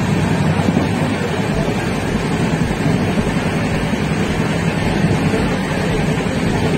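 Running noise inside a moving passenger train coach with open windows: a loud, steady rumble of the wheels on the track mixed with rushing air.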